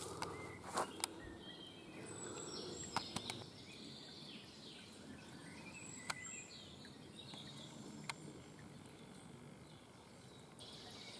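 Songbirds singing, a steady scatter of short chirps and warbles, over a quiet woodland background with a few sharp clicks.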